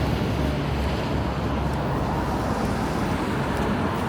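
Steady road traffic noise on a city street, with a low engine hum from nearby vehicles.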